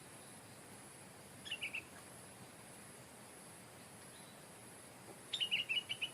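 Stripe-throated bulbul singing: a short phrase about one and a half seconds in, then a longer phrase of quick notes near the end.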